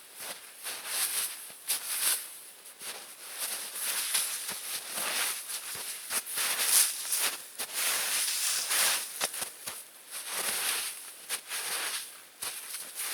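Irregular rustling and crunching of dry forest litter, leaves and twigs, as of someone moving about on foot, with sharp little cracks throughout.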